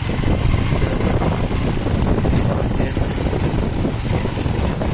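Steady low rumble of a moving motor vehicle, with wind buffeting the microphone.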